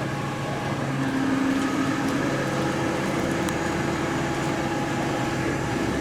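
A motor vehicle's engine running steadily at an even speed, a constant hum with a few held tones.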